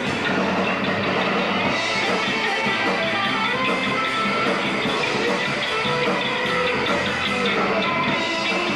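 Hard rock band playing live: guitar and a drum kit, with no singing.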